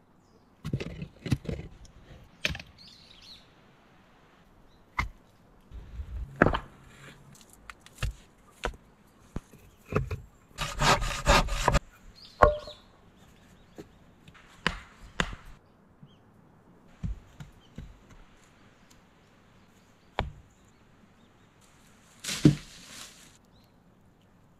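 Scattered knocks and clunks of wooden logs and poles being handled, with a dense clattering stretch about halfway through and a loud sharp knock near the end.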